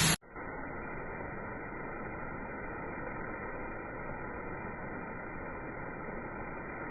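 Steady, muffled hiss of background noise with no distinct sounds in it. It starts abruptly just after a cut.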